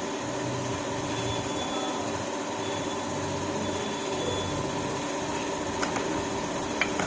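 A steady mechanical hum, with a couple of light clicks near the end.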